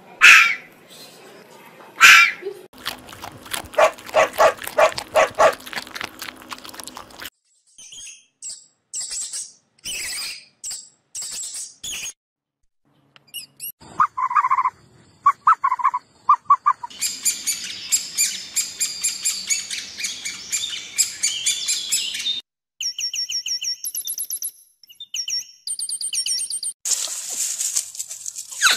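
A string of different animal calls, one after another: two sharp calls, a fast pulsing call, then bird chirps, a few repeated mid-pitched notes, dense twittering and high trills.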